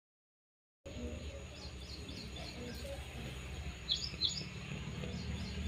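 Small birds chirping in quick series of short, high chirps, the two loudest about four seconds in, over a steady low background rumble.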